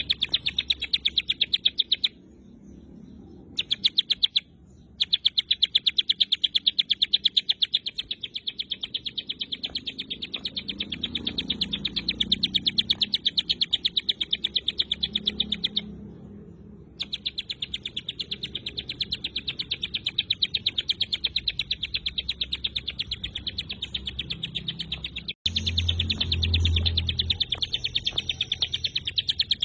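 Hill prinia (ciblek gunung) singing its rapid 'tembakan' song: a dense, fast run of sharp repeated high chirps, in long bursts broken by short pauses. A brief low rumble sounds a few seconds before the end.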